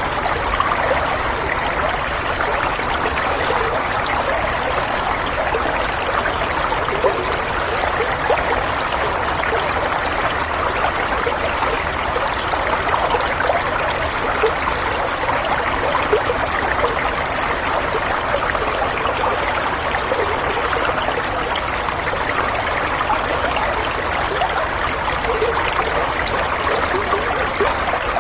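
Running water flowing and trickling in a steady, unbroken rush, with small splashing flecks.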